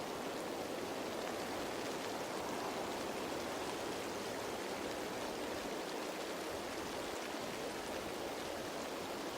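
Steady rain falling on leaves, a dense even patter with faint drop ticks in it.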